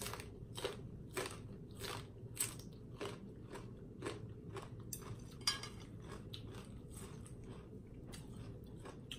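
Crunchy chewing of a raw yardlong bean held in the mouth: a crisp crunch about every half second at first, becoming more irregular after a few seconds.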